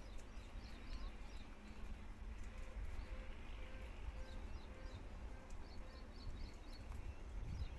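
Birds chirping in short, quick clusters over a steady low rumble, with a faint short note repeating about twice a second through the middle.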